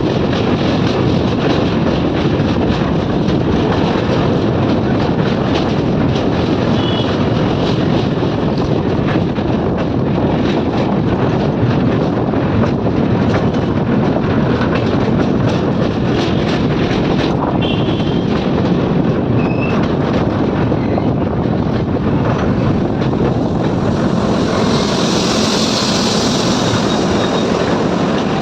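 Train crossing a bridge: a steady, loud rumble with fast rail clatter, and a brief high hiss near the end.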